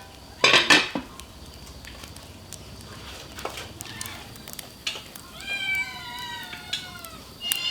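A domestic cat meowing: a loud short call about half a second in, then a longer, wavering meow about two-thirds of the way through.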